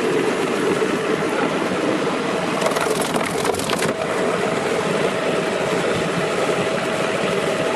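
Commercial spare-rib and bone cutting machine running and cutting through meat and bone, a continuous dense clatter with a cluster of sharp cracks about three seconds in.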